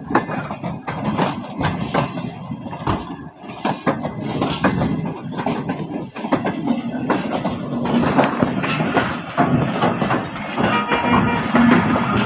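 Passenger train rolling slowly in reverse into the platform, its wheels knocking irregularly over rail joints and points, with a low engine hum in the second half.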